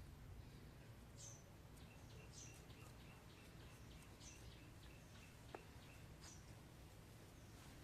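Near silence with a small bird chirping faintly: about five short, high chirps spaced a second or two apart.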